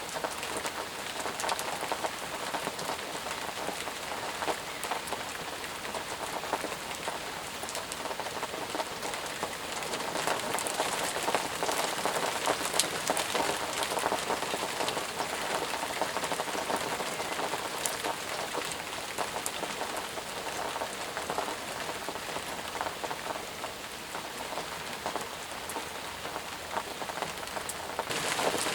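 Heavy rain falling steadily: a dense, even patter of countless drops. Near the end the sound changes abruptly and turns brighter and hissier.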